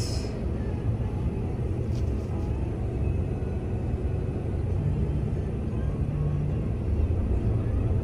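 Steady low rumble of a vehicle engine idling, heard from inside a car stopped in traffic.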